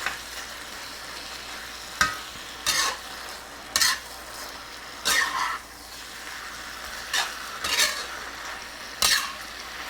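Chicken stir fry with noodles and sauce sizzling steadily in a cast iron pan as it is stirred and tossed, a utensil scraping and clinking against the pan about seven times.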